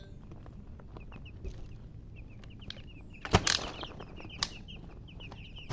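Baby chicks peeping: many short, high, falling cheeps in quick succession. A loud brief burst of noise comes a little past halfway, followed by a sharp tap about a second later.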